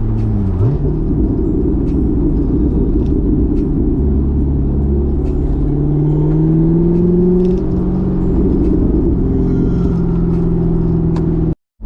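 Car engine pulling through the gears: its pitch rises, climbs steadily for a few seconds, then drops at a gear change about seven and a half seconds in and settles to a steady cruise.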